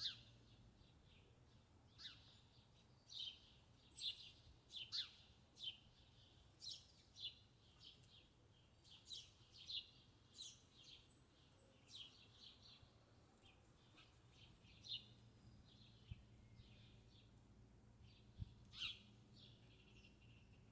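Small birds giving short, high chirps, each dropping quickly in pitch, at an irregular pace of about one or two a second, with a pause between about 16 and 18 seconds in. Faint, over a low steady hum.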